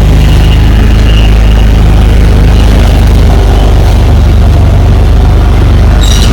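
A tractor-trailer's diesel engine running with a loud, steady low rumble. There is a short sharp click near the end.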